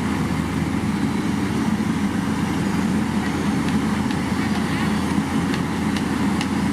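Heavy diesel road-construction machinery running steadily, a dense low engine drone with no change in level. A few faint sharp ticks sound in the second half.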